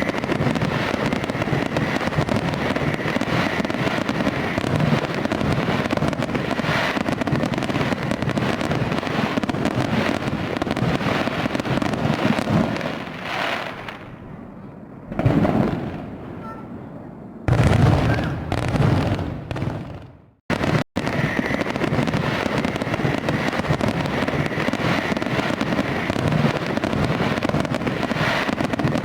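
Fireworks going off in a dense barrage, a continuous crackle of bangs and pops that cuts off abruptly and resumes several times about halfway through.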